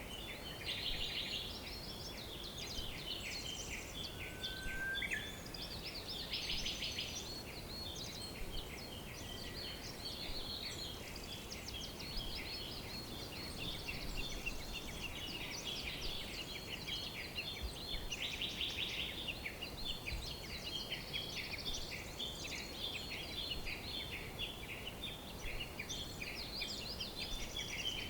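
A dense chorus of many small birds chirping and trilling over one another without a break, over a faint steady hiss. A short low whistle stands out briefly about four and a half seconds in.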